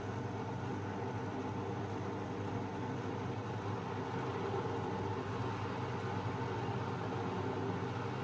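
Beko WMB 71643 PTE washing machine running with a steady, even hum, with no change in speed.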